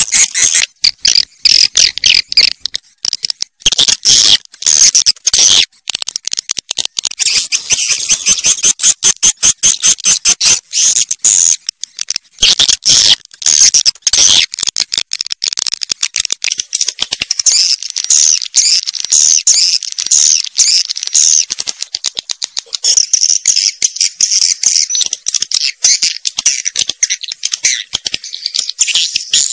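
Swiftlet calls: a dense, unbroken chatter of rapid high-pitched chirps and clicks, the swiftlet lure sound played to draw the birds into nesting houses.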